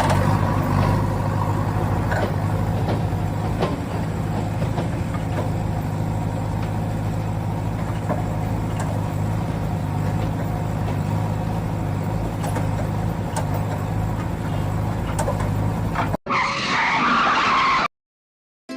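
A small motor running steadily for about sixteen seconds, with a low, even hum. It cuts off suddenly and is replaced by a short burst of a different, hissier sound, followed by silence.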